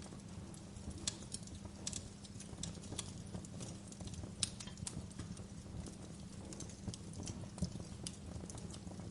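Wood fire crackling in a fireplace: irregular sharp pops and snaps, a few each second, over a low steady rumble of the flames, with the sharpest pop about four and a half seconds in.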